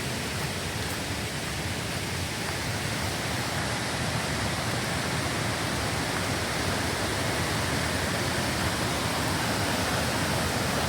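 Steady rush of a waterfall and creek in flood, swollen by heavy rain.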